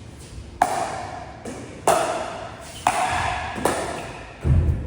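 Pickleball paddles striking a plastic ball in a short rally: four sharp pocks roughly a second apart. A duller low thump follows near the end.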